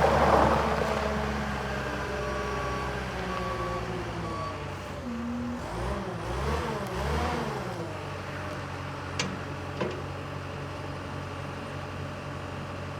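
Perkins diesel engine of a Takeuchi TS70V skid steer running, easing down from higher revs at the start and then holding steady. Three short beeps come a couple of seconds in, the engine pitch rises and falls twice about six to seven seconds in, and two sharp clicks follow.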